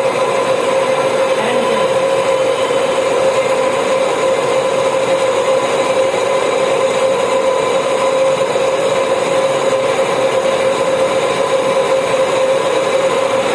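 Lathe running steadily: a constant mechanical noise with a steady hum.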